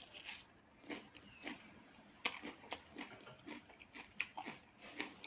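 A person chewing a mouthful of raw vegetable salad: faint, irregular crunching clicks, a few to each second.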